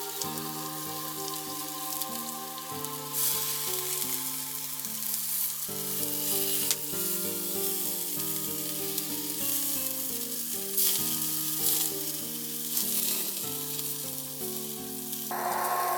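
Food sizzling as it cooks over a campfire, a steady hiss that swells a little now and then, under background music of held notes.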